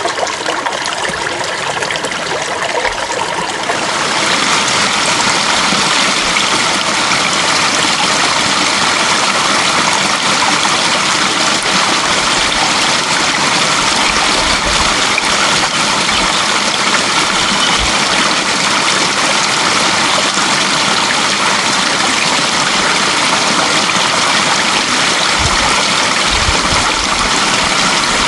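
Water of a stream running steadily over stones, a continuous rushing that grows louder and brighter about four seconds in.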